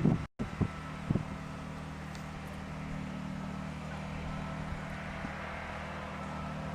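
A small engine running steadily with a low, even hum, with a few knocks and a brief dropout in the first second.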